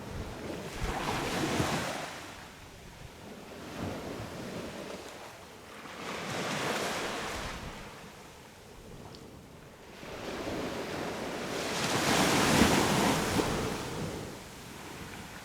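Sea waves breaking on a sandy beach, the surf swelling and washing back in slow surges every few seconds, the loudest a little past two-thirds of the way through. Some wind on the microphone.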